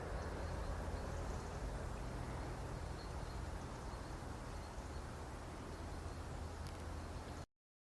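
Faint steady outdoor ambience: a low rumble under a light hiss, cutting off suddenly to silence near the end.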